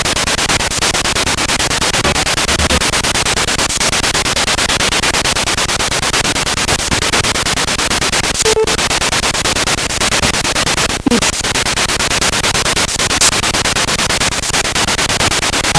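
Spirit box radio sweeping through stations: loud continuous static chopped into rapid pulses, with a few brief snatches of tone.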